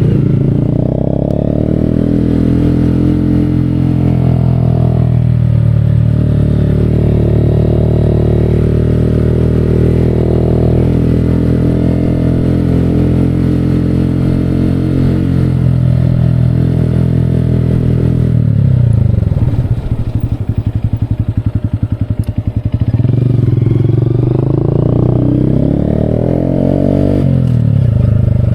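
Motorcycle engine running under way with a steady note. About two-thirds through, the revs drop to a slow, chugging low-speed beat for a few seconds, then the engine revs up again.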